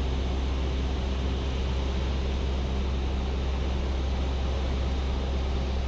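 Cessna 172's piston engine and propeller droning steadily, heard inside the cabin, with a strong low hum and an even hiss over it.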